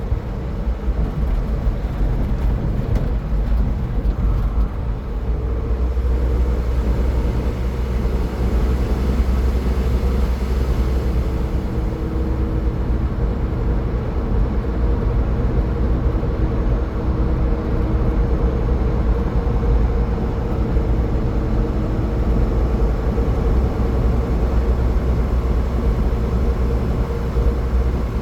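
A car driving at highway speed: a steady rumble of tyres on the road with a low, even drone.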